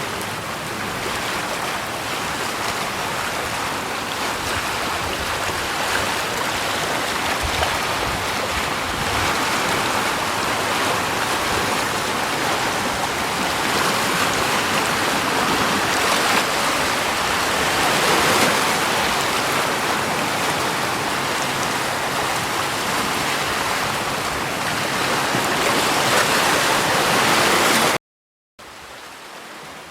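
Steady rush of running water. Near the end it drops out for a moment and comes back much quieter.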